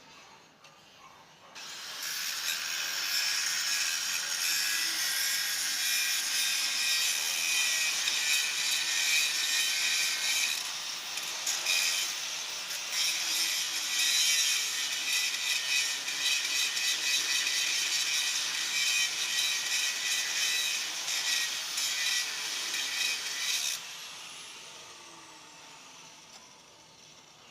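Power tool cutting into a 6-inch aluminium alloy pipe, with a steady whine over a harsh rasp. It starts about two seconds in, runs for about twenty seconds, then cuts off and winds down.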